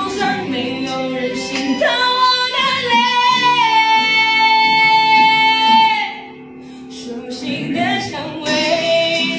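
A young female voice singing over backing music, sliding up into one long high held note that breaks off about six seconds in; the music dips quieter for a moment, then the singing picks up again.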